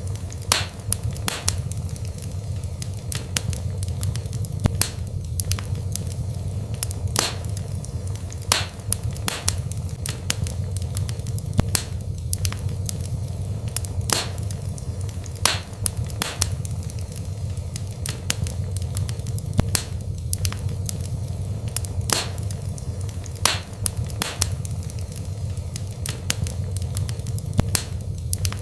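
Wood fire burning in a fireplace: a steady low rumble with sharp crackles and pops at irregular intervals, roughly one every second.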